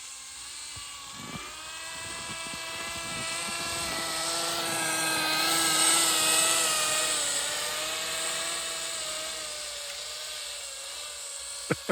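Small nitro glow engine of a Kyosho Blizzard GP RC snow vehicle running with a high, fairly steady buzzing whine, growing louder to a peak about halfway through and then fading. A couple of sharp clicks near the end.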